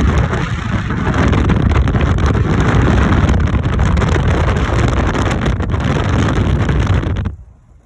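Strong wind buffeting the microphone, a loud rumbling rush that cuts off abruptly near the end.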